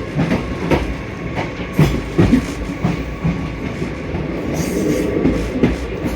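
Indian Railways passenger train running at speed, its wheels knocking unevenly over the rail joints above a steady rumble.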